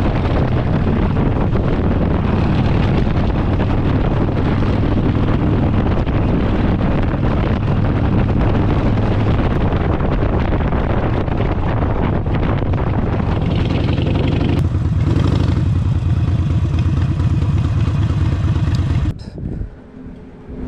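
Harley-Davidson Sportster V-twin running loud through an aftermarket exhaust, a deep, dense exhaust note. The sound changes about fifteen seconds in and cuts off abruptly near the end.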